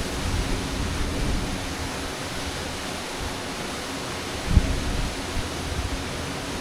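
Waterfall rushing in a steady, even hiss. Wind buffets the microphone in a low flutter, with one short low surge about two-thirds of the way through.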